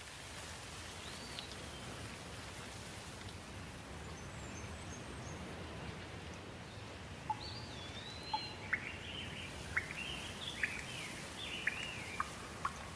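Songbirds singing over a steady wash of water. One whistle sounds about a second in and faint high chips follow a few seconds later. Past the middle a bird sings a run of quick whistled phrases with sharp notes.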